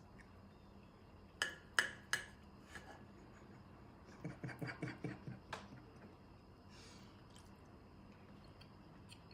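Faint eating noises from chewing octopus tentacle: three sharp clicks, then about four seconds in a quick run of soft, wet mouth pulses, about seven a second, and one last click.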